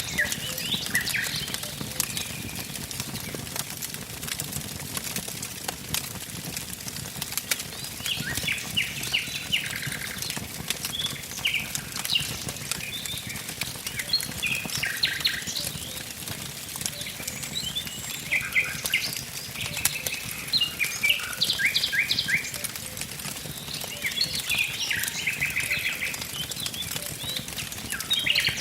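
Wood fire crackling with scattered sharp pops over a low steady hiss, while songbirds sing short phrases of quickly repeated notes.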